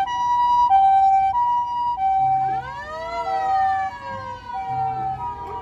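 Ambulance siren: a two-tone hi-lo pattern switching about every 0.7 s, joined about two and a half seconds in by a wailing tone that rises quickly and then slowly falls.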